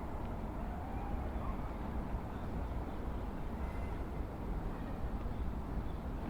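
Steady low outdoor background rumble with no clear single source, and a few faint short high chirps over it.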